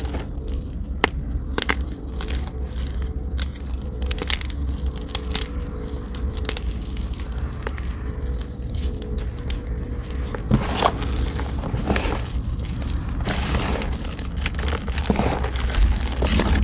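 Blocks of gym chalk being crushed and crumbled close to the microphone, an irregular run of crunches and crackles that gets denser near the end, over a steady low rumble.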